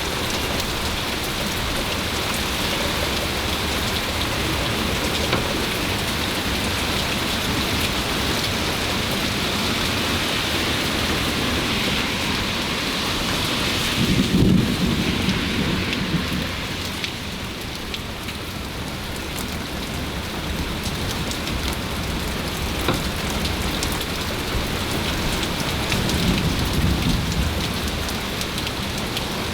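Heavy rain pouring steadily during a thunderstorm, with a rumble of thunder about halfway through and a weaker rumble near the end.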